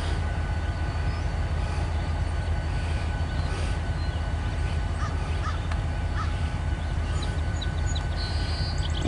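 Steady low rumble of a freight train's diesel locomotive and rolling tank cars in a rail yard, with a few faint bird calls over it.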